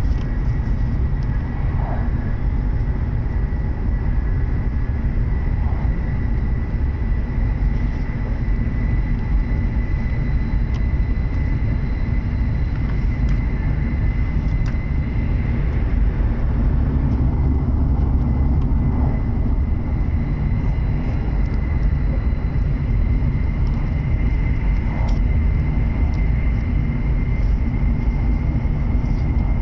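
Cabin noise inside a W7 series Shinkansen passenger car at running speed: a steady low rumble of wheels on rail with a thin, steady high whine over it and a few faint ticks.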